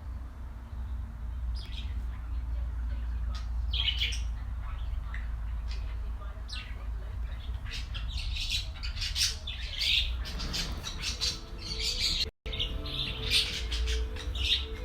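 Pet birds giving short, sharp squawks and chirps, sparse at first and coming thick and fast in the second half, over a steady low rumble.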